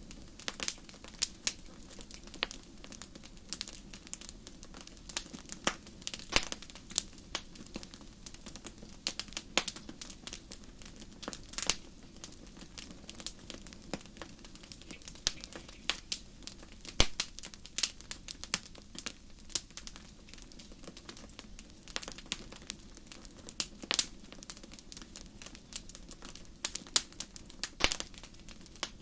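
Fire crackling in a fireplace: irregular sharp pops and snaps, unevenly spaced and sometimes several close together, over a soft steady low rush of flame.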